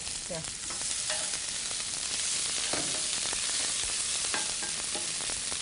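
Chopped onions and dried pasilla chilies sizzling in hot oil in a stainless steel pan as they are toasted, stirred with a spatula against the pan. The sizzle grows a little louder about a second in.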